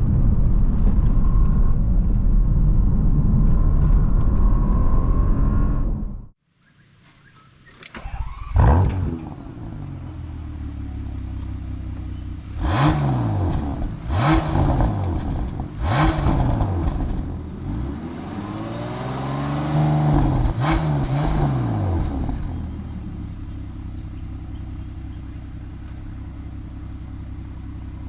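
Bentley Flying Spur Speed's 6.0-litre twin-turbo W12 driven hard on a twisty road: a loud steady drone at first, a brief drop-out about six seconds in, then the engine revving up and falling back several times with a short sharp sound at some of the peaks, before settling to a steadier, quieter run near the end.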